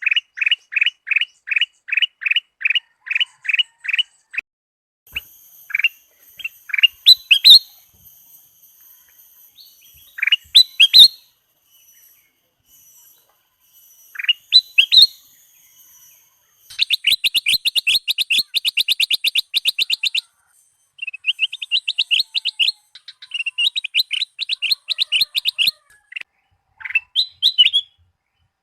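Kutilang emas bulbul singing a varied song. It opens with a fast run of repeated down-slurred notes, about three a second, then gives scattered rising whistles. From about the middle it sings long fast trills of rapid clipped notes. Faint thin high-pitched tones sound above the song in the middle part.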